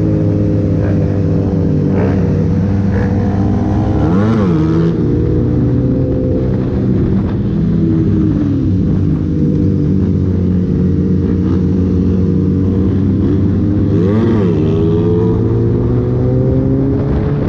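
Sport motorcycle engine running steadily at cruising speed, heard from on the bike, with the engine note dipping and picking back up twice.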